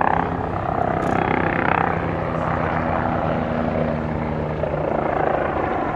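MBB Bo 105 helicopter flying a display: a steady rotor beat with the twin turboshaft engines, swelling and easing as it manoeuvres.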